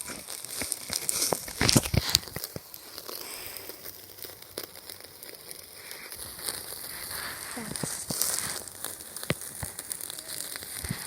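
Campfire burning with a steady hiss and irregular crackles and pops, loudest around two seconds in.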